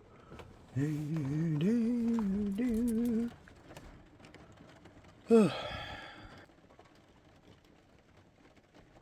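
A man humming a few notes of a tune, steady notes stepping up and down for about two and a half seconds. About five seconds in comes a brief loud vocal sound that falls in pitch.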